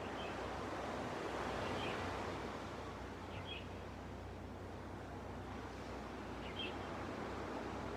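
Gentle ocean waves washing on a beach, a steady wash that swells about one to two seconds in. Faint, short bird chirps come through several times.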